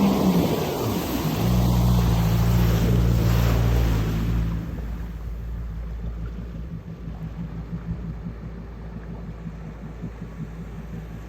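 Yamaha jet ski engine running, its pitch falling as it throttles back in the first second, then running steady before dropping to a quieter low idle about four and a half seconds in. Water and wind hiss under it, strongest while it runs fast.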